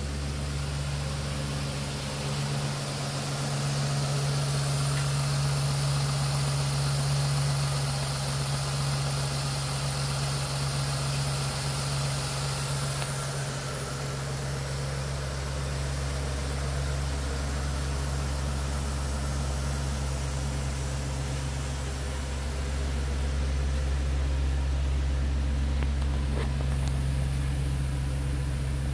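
2007 Jeep Commander's 3.7L V6 engine idling steadily.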